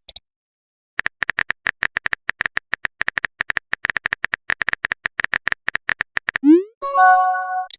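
Messaging-app sound effects: fast, irregular phone-keyboard typing clicks for about five seconds, then a short rising pop and a chime of several held tones as a message is sent.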